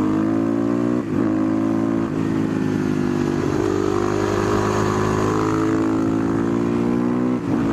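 Husqvarna 510SM single-cylinder supermoto engine accelerating hard through the gears. Its pitch climbs, then drops sharply at upshifts about one and two seconds in, pulls steadily upward, and shifts again near the end.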